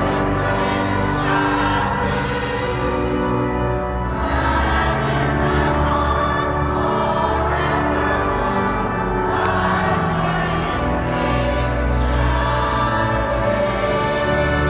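Choir singing with church organ accompaniment, the organ holding long low notes under the voices.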